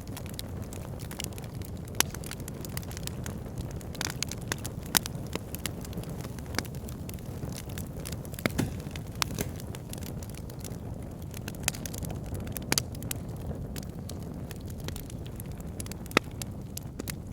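Fire pit fire burning with irregular crackling and sharp pops over a steady low rumble, a few pops standing out louder than the rest.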